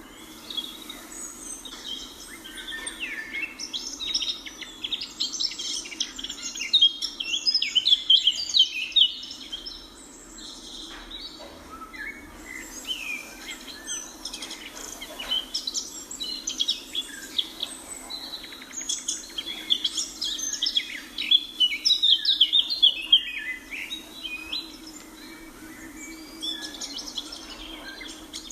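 Many birds chirping at once, quick overlapping calls that grow busy and loud twice: around a quarter of the way in and again about three quarters through. A steady low hum runs underneath.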